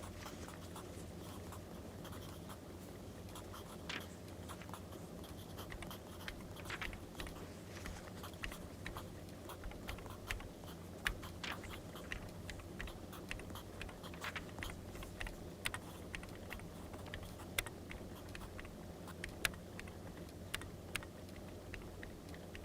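Wood fire crackling in irregular sharp pops and clicks over a steady low hum, mixed with soft scratching of pen on paper.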